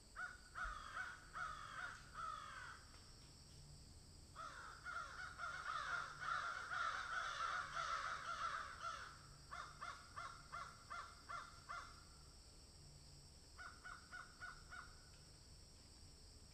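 Flock of birds calling: faint runs of falling calls, a few at first, then a dense overlapping chorus from about four to nine seconds, then separate calls and a short burst near the end.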